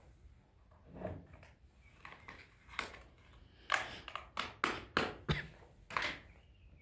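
Irregular sharp clicks and knocks of things being handled and set down during dough preparation, a few at first, then a quick run of about eight in the second half.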